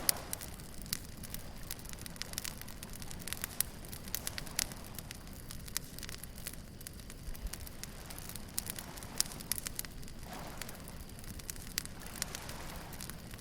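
Wood bonfire crackling, with frequent sharp pops and snaps. Beneath it is a steady low rush of surf, which swells a couple of times near the end.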